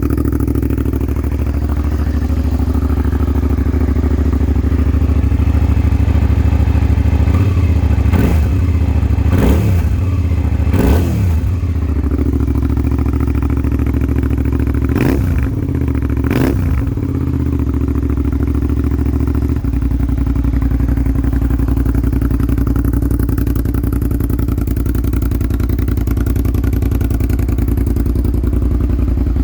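Suzuki SV650S 645 cc V-twin idling as it warms up after a cold start, with five quick throttle blips in the middle, each a fast rise and fall in pitch.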